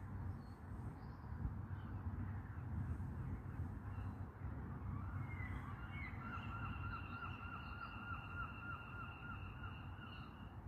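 A bird calling over a steady low outdoor rumble. About halfway through it gives a quick run of short repeated notes, roughly four a second, over a steady high whistle, lasting about four seconds.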